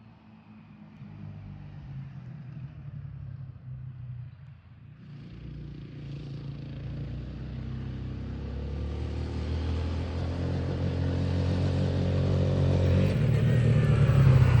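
Kawasaki Bayou 250 ATV's single-cylinder four-stroke engine running as the four-wheeler approaches, growing steadily louder, with its pitch dropping near the end.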